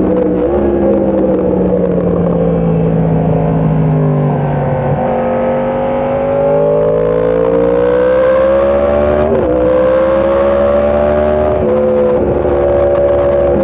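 Sport motorcycle engine heard from on board while riding. Its pitch sinks over the first few seconds, then climbs under acceleration, and drops abruptly about nine seconds in at a gear change, with another change near the end.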